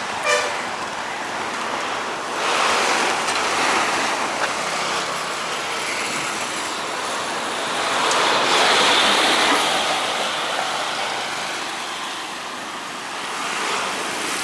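Street traffic on a town road: a steady noise of passing vehicles that swells louder about two and a half seconds in and again around eight to ten seconds in, as vehicles pass close.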